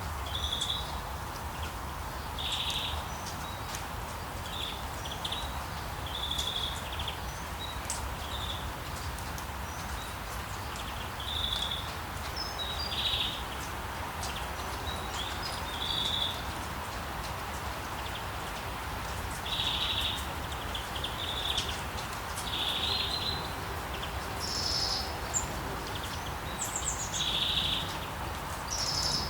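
Birds chirping in short, repeated calls every second or two, over a steady outdoor background hiss and a low rumble.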